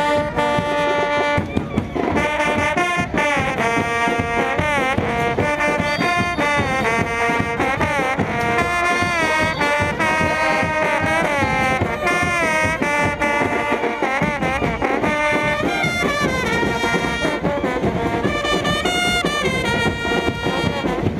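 Brass band music, trumpets and trombones playing a moving melody over a steady beat.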